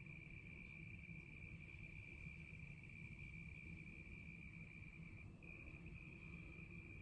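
A cricket trilling in one steady high note, which breaks off for a moment about five seconds in, over a faint low rumble.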